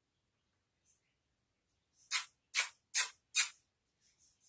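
Indian ringneck parrot giving four short, harsh, rasping calls in quick succession, evenly spaced about half a second apart.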